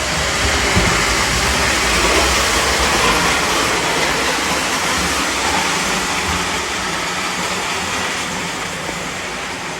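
Model trains running on a layout's track: a steady rolling rush of wheels and motors that slowly gets a little quieter toward the end.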